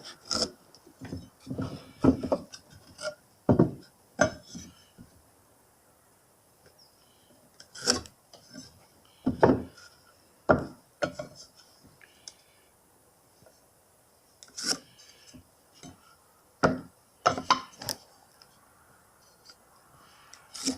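Irregular knocks, clacks and scraping of tools and parts being handled, with quiet stretches in between.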